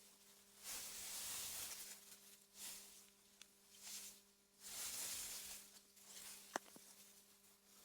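Faint wind gusting through meadow grass, a soft rustling hiss that swells and dies away four or five times. A faint steady hum runs underneath, and a single sharp click stands out about two-thirds of the way through.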